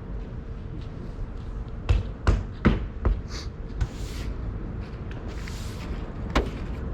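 Several sharp knocks and thumps, most bunched together about two to three seconds in and one more near the end, with two short brushing swishes between them, as snow is cleared off a car over a low outdoor rumble.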